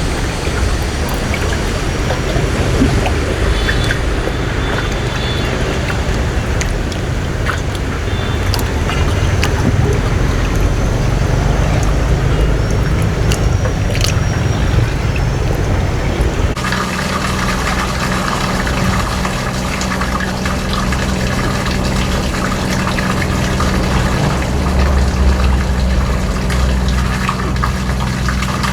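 Boat engine running steadily, with water rushing and splashing alongside. The engine's tone changes abruptly partway through.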